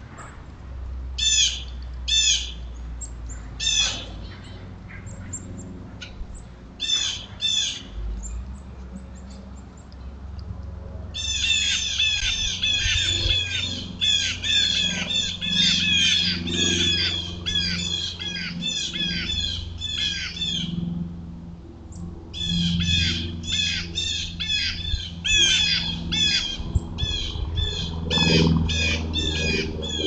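Birds calling: short, repeated high calls, a few at a time at first, then many in quick succession from about a third of the way in, with a brief pause and another fast run toward the end.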